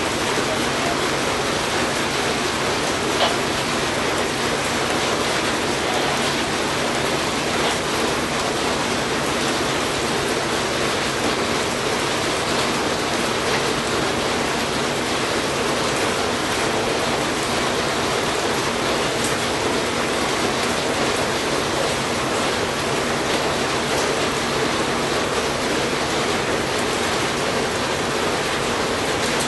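Heavy rain falling steadily, with a faint low hum underneath.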